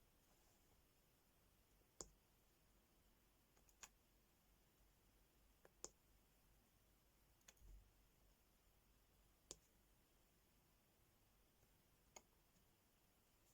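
Faint, sharp clicks, about seven in all and roughly two seconds apart, with a soft thump about halfway through: a diamond painting pen tapping rhinestone drills onto a sticker canvas.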